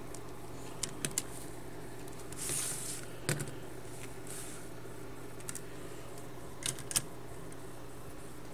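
Scattered light plastic clicks and taps from a hand-pushed LEGO guideway train model, a few single clicks over a steady low hum, with brief soft rustles in between.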